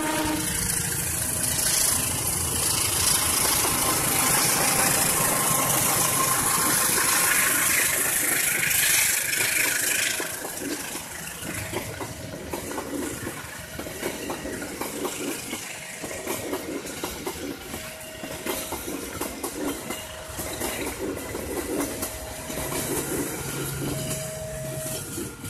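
Diesel-hauled passenger train running past on the tracks. It is loud and rushing for about the first ten seconds, then drops to a quieter rumble of coaches with a regular, repeating pulse.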